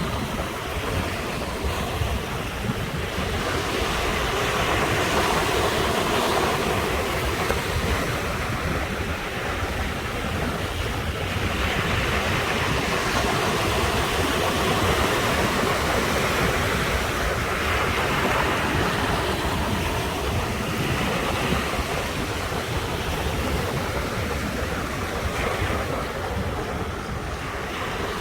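Sea waves breaking and washing on the shore in a continuous surge that swells and eases every few seconds, with a low rumble of wind on the microphone.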